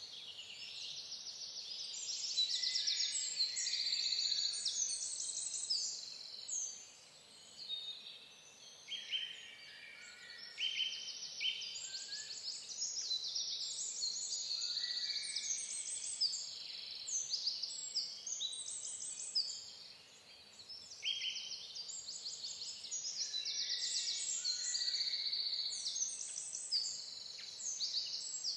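A chorus of songbirds singing and calling at once: a continuous tangle of overlapping high chirps and trills, thinning briefly about a third of the way in and again past the middle.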